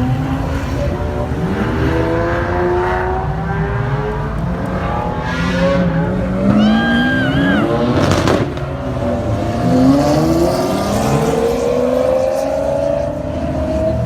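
High-performance car engines accelerating hard, several overlapping runs rising in pitch as they rev up. About seven seconds in there is a brief high squeal, and just after it a short loud burst of noise.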